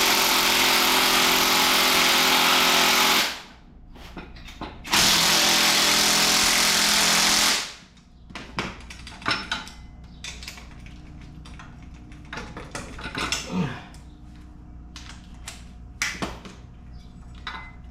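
A handheld power tool spinning a socket in two runs of about four and three seconds, with a short pause between them. After that come light metallic clicks and knocks of parts being handled.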